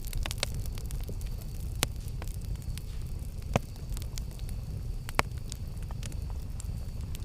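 Campfire burning with a steady low rumble and frequent crackles and pops, three of them sharp and loud.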